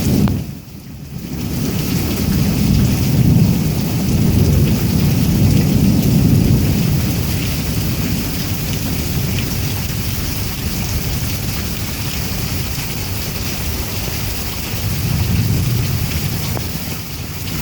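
Thunderstorm: steady rain hissing down while long rolling thunder rumbles low, building a couple of seconds in and swelling again near the end.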